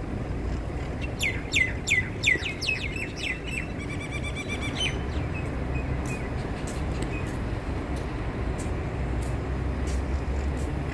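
Birds calling: a quick series of sharp chirps that slide down in pitch about a second in, then a fast rattling trill around four seconds, over a steady low background rumble.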